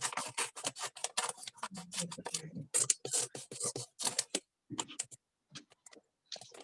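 Rapid crinkling and clicking of gift-wrapping materials being handled: dense for about four seconds, then a few scattered clicks.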